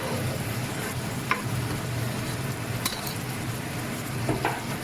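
Chicken curry sizzling in a non-stick pan on high heat, with a few light clicks of a utensil against the pan as chopped mint and coriander go in and are stirred.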